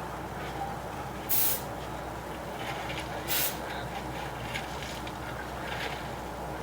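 Steady low mechanical hum with two short, sharp bursts of hiss, about two seconds apart.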